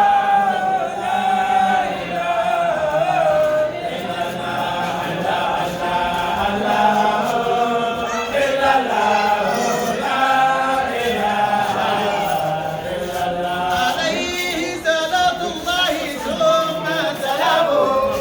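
A large group of voices chanting together in a devotional chant of praise, with no instruments. Higher voices join in more strongly about fourteen seconds in.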